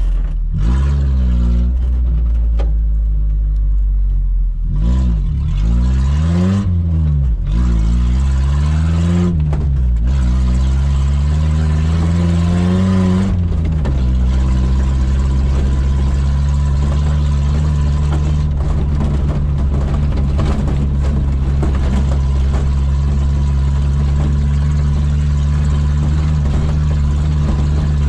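Suzuki Samurai's engine under way off-road: its pitch rises and falls several times in the first half as the revs change, then it runs at a steady speed for the rest.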